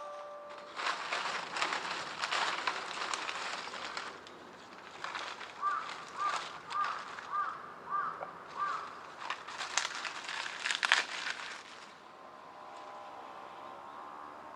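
Bursts of crackling, crinkling rustle, with a short chirp repeated six times about half a second apart in the middle.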